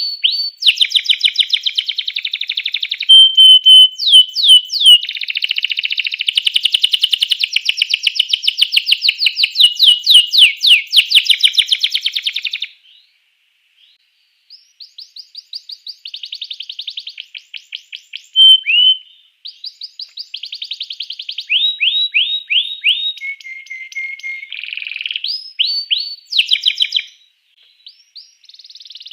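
Domestic canary singing a long, loud song of fast trills and rapid strings of repeated whistled notes. The song breaks off briefly about 13 seconds in and again near the end.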